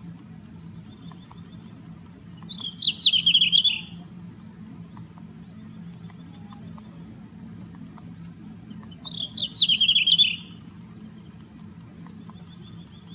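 A small songbird gives a short, rapid warbled phrase twice, about six seconds apart, each lasting just over a second. Faint, evenly spaced high call notes come in between, over a steady low hum.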